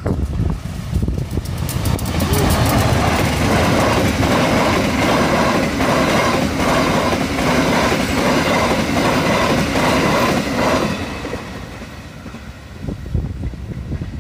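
Diesel-hauled passenger train passing close by: a low engine rumble at first, then the carriages' wheels clattering rhythmically over the rail joints, loud for several seconds before fading as the train moves away.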